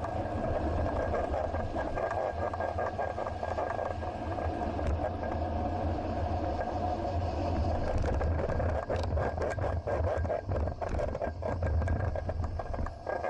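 Steady riding and street-traffic noise picked up by a bicycle-mounted action camera: a low engine-like hum with a thin steady whine over it. In the second half come many quick rattling clicks, typical of the bike and camera mount shaking over a rough surface.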